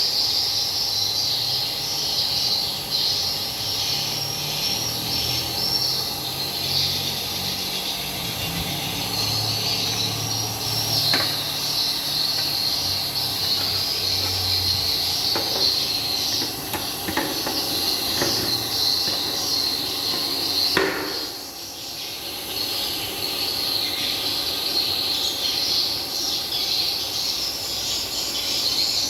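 A humidifier running with a low steady hum, under a continuous high-pitched chirring, with a few short clicks around the middle.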